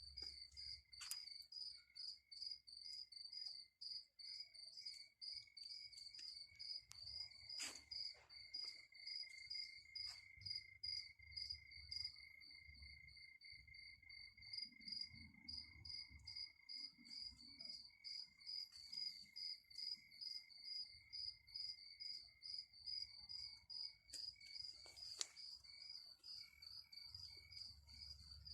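Crickets chirping: a high chirp repeating in fast, even pulses over a steadier high trill, with a few faint sharp clicks.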